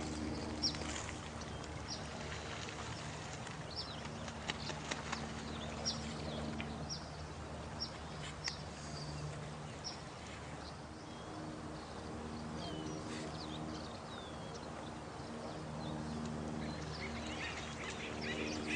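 Night nature ambience: a steady rush of running water, with short, high, falling animal calls repeating every half second to a second and lower drawn-out calls that come and go.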